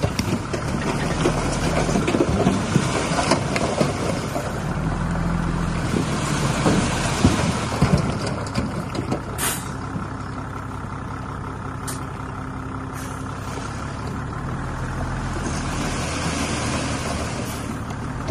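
Heavy construction machinery engines running steadily. There are metal clanks and knocks in the first half, and a few short hisses like air-brake releases in the second half.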